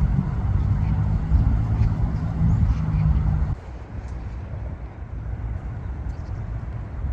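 A low, steady engine rumble with a hum that cuts off suddenly about halfway in, leaving quieter outdoor background noise with a few faint, brief high calls.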